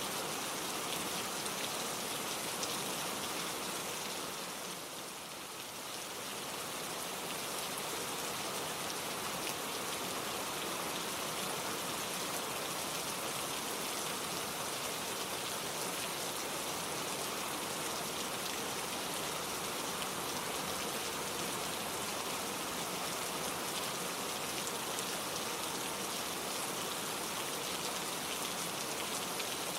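Gentle rain falling steadily, a dense even patter of drops with no thunder, easing slightly for a moment about five seconds in.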